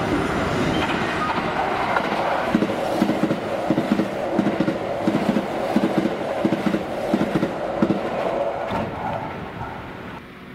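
Kintetsu limited express electric train passing through the station at speed without stopping: a steady rush of running noise, then a rhythmic clickety-clack of wheels over rail joints, about three beats a second, which fades away near the end.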